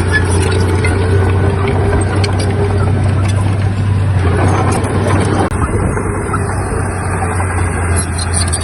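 Heavy diesel earthmoving machinery running steadily, with a constant low engine drone.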